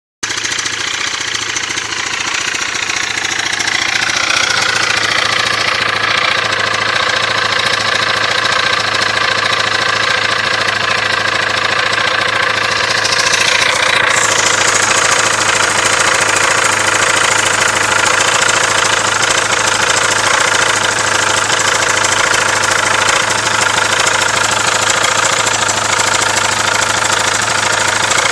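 KTM 690 SM's single-cylinder engine idling steadily.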